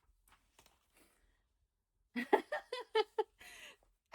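A woman's short giggle, a quick run of high laughing pulses about two seconds in, followed by a breathy exhale; faint small rustles before it.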